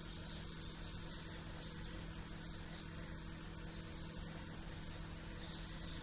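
Small birds chirping faintly at dawn: a few short, high chirps, the loudest about two and a half seconds in, over a steady low hum and background hiss.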